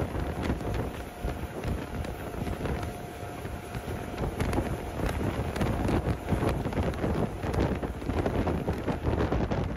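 Running noise of a passenger train in motion, heard from on board, with wind buffeting the microphone. A faint steady whine sounds through the first few seconds.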